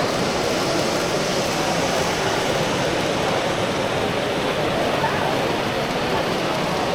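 Steady murmur of many people talking at once, no single voice standing out.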